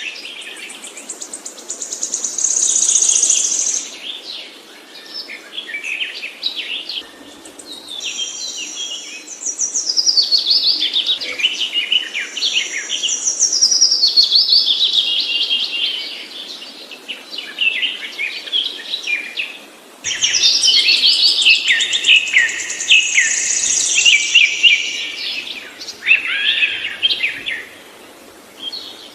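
A songbird singing long, fast, varied phrases of high notes, trills and falling runs, in several bouts separated by short pauses, some starting or stopping abruptly.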